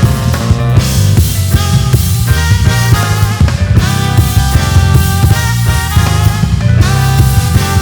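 Live band playing an instrumental: drum kit keeping a steady beat under a heavy bass line and sustained keyboard chords that change every second or so.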